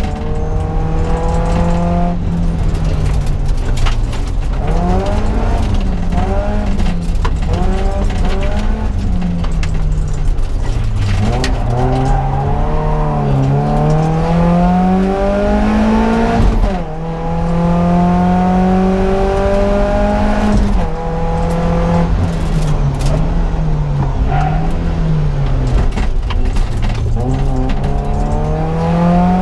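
BMW E30 318is Cup car's 1.8-litre four-cylinder engine heard from inside the cabin at full stage pace, its pitch climbing under acceleration and dropping sharply again at gear changes and braking, over and over.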